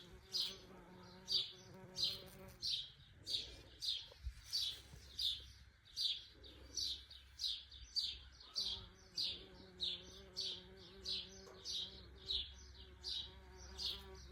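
A bird giving a short high chirp over and over, about twice a second, with the low buzzing hum of bees underneath for the first couple of seconds and again in the second half.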